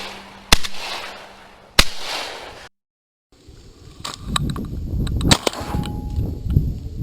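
Two shotgun shots about a second apart, each dying away. After a brief silence, wind buffets the microphone in a low, gusty rumble, with a few clicks and knocks.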